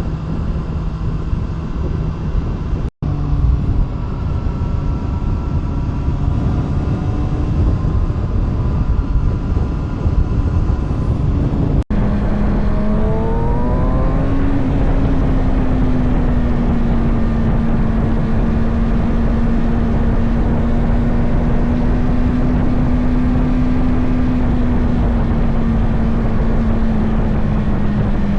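Kawasaki ZX-6R inline-four with an SC Projekt aftermarket exhaust under way, with wind and road noise. It holds a steady engine note, pulls through a few quick rising revs about twelve seconds in, then settles into a steady cruise that eases off slightly near the end. The sound cuts out for an instant twice.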